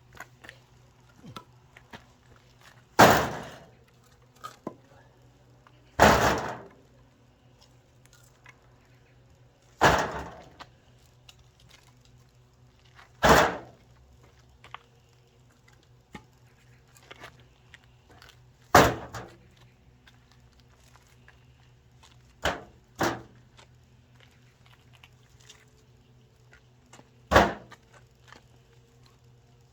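Firewood being split with heavy strikes: eight sharp knocks spaced about three to five seconds apart, two of them close together past the middle, each with a short ringing tail.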